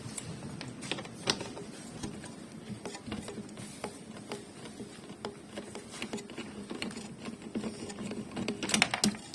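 Irregular clicks and light knocks of hand tools and small parts being handled, with a quick run of sharper, louder clicks near the end.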